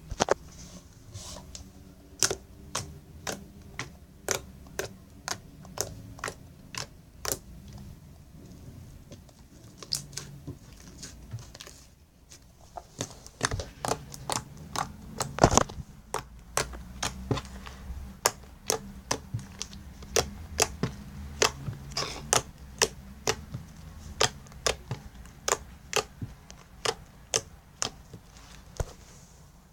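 Slime being squeezed and pressed by hand, giving a long run of sharp popping clicks at an uneven pace of one to three a second, from air pockets bursting in the slime.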